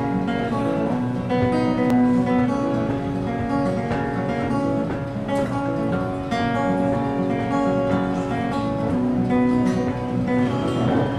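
Acoustic guitar playing the strummed introduction to a song, a steady pattern of chords.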